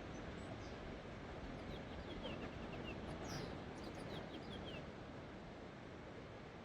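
Gentle Pacific surf washing on the beach as a steady, even rush, with a run of short, high bird chirps in the middle.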